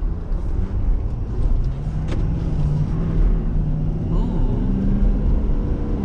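Ford F250's 6.7 L Power Stroke V8 turbo diesel pulling the truck under acceleration, a steady low drone over road rumble, its pitch stepping about four seconds in.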